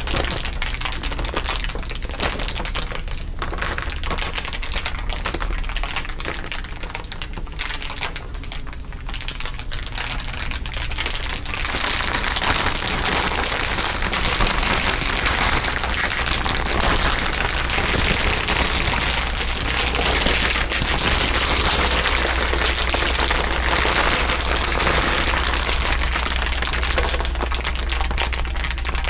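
Layered crinkling: a dense crackle of many small, rapid crinkles, growing thicker and louder about twelve seconds in, over a steady low hum.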